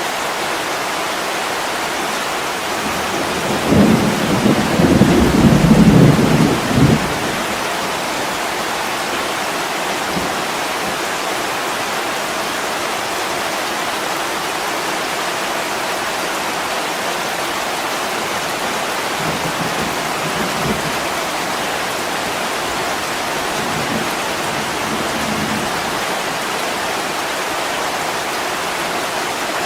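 Steady heavy rain pouring on a window, with a rumble of thunder about four seconds in that lasts some three seconds, and fainter low rumbles later on.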